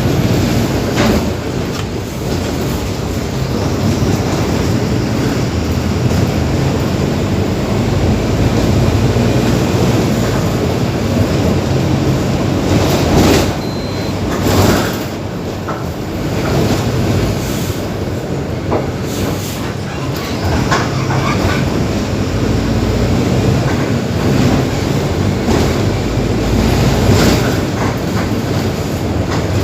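Mercedes-Benz OF-1721 BlueTec 5 bus diesel engine running as the bus drives, a steady low drone whose pitch shifts now and then, with occasional knocks and rattles from the body.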